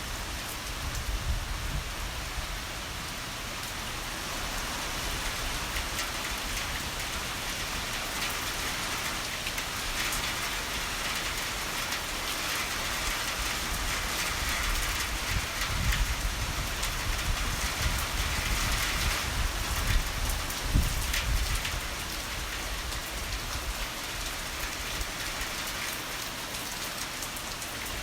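Heavy rain falling steadily. About halfway through, a low roll of thunder swells for several seconds, peaking twice before it dies back into the rain.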